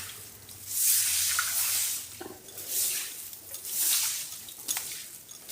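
Water splashing as a door is washed down, coming in several surges of splashing about a second long.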